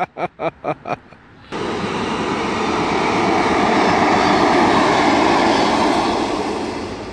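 A man laughing in a quick run of short bursts that stops about a second in. A passenger train then passes close by at speed: a steady rushing rumble of wheels on rail that swells and fades away.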